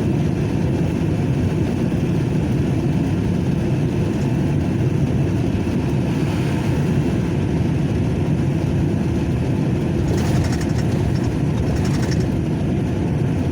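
A truck's engine running, a steady low rumble.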